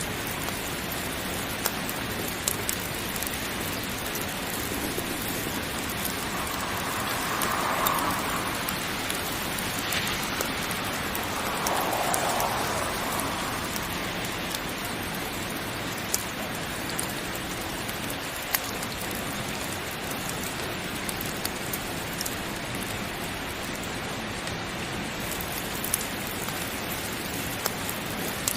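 Steady heavy rain falling, with scattered sharp ticks and two brief swells in loudness, about a third of the way in and again a few seconds later.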